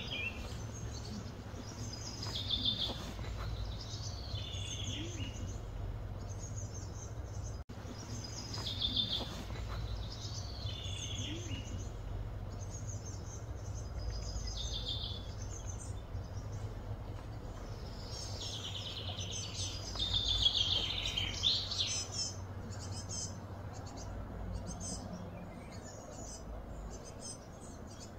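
Birds singing, short chirping phrases repeated every few seconds, some sliding down in pitch, over a steady low outdoor hum.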